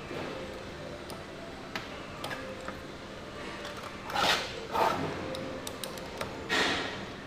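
Light clicks and taps of small carburetor parts being handled, with three short rushes of noise about four, five and six and a half seconds in.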